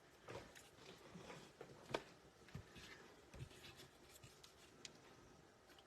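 Faint rustling and light taps of paper and cardstock being handled, with one sharper click about two seconds in.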